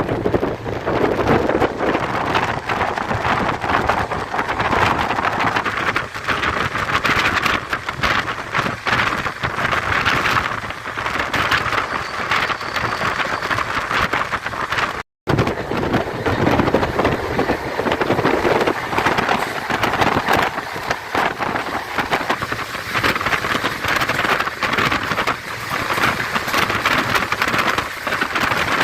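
Indian Railways express passenger coach running at speed, heard from on board: a steady rush of wheel and rail noise with constant fine rattling and clatter and wind. The sound breaks off for a moment about halfway.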